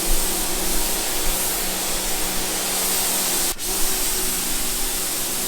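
Steady spraying hiss of water jetting from a hose or pressure washer, with a faint motor hum under it; it cuts out for an instant about three and a half seconds in.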